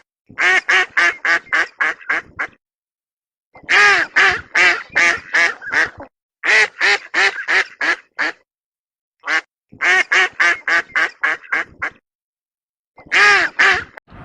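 A duck quacking in quick runs of several quacks, each run broken off by a short dead silence, about five runs in all.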